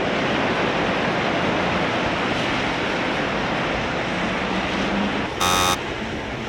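Steady hiss of heavy rain and traffic on wet streets. About five and a half seconds in, a short, loud beep cuts through it.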